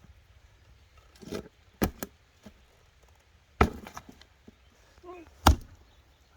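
Axe splitting firewood: three hard strikes about two seconds apart, with lighter knocks of wood around them.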